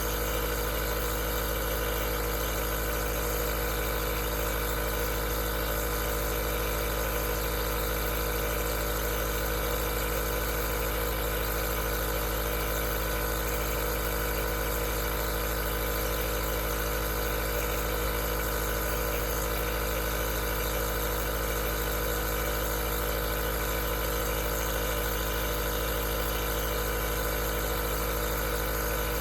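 Aerosol nebulizer's compressor running steadily: a constant mechanical hum with a layered buzz and hiss, no change in pitch or level.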